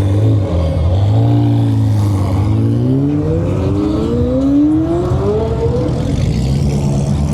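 Car engine running low, then revving up as the car pulls away, its pitch climbing steadily for about three seconds before it drops back to a lower note near the end.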